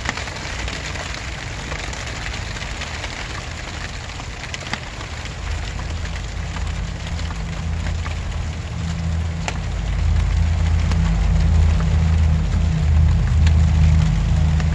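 Steady rain falling, with many individual drops ticking sharply close by. A low rumble builds up from about halfway through and becomes the loudest sound near the end.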